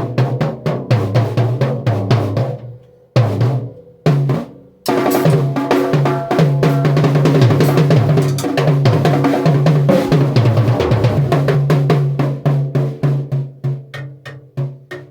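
Drum kit played fast, snare and bass drum hits with cymbals, over a sustained low bass line. It breaks off briefly about three and four and a half seconds in, then plays on densely and thins out to a stop at the end.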